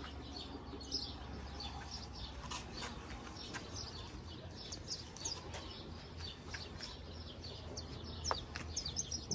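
Small birds chirping and calling in the background, many short high chirps scattered throughout, over a faint steady low rumble.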